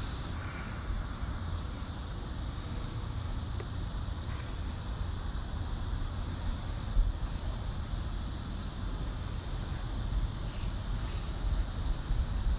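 Wind buffeting the microphone: an uneven low rumble under a steady faint hiss.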